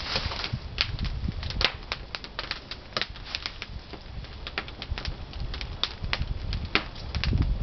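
Pine firewood burning in a traditional wood-fired kiln, crackling and popping irregularly several times a second over a low rumble.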